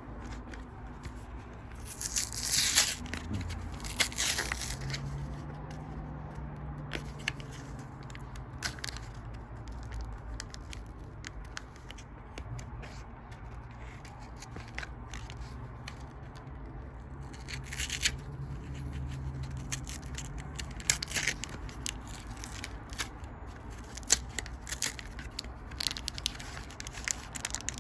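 Pokémon booster packs and cards being handled: foil pack wrappers crinkling and tearing open in bursts of crackly rustling every few seconds, the loudest a couple of seconds in, with lighter clicks and scrapes of cards sliding against each other in between.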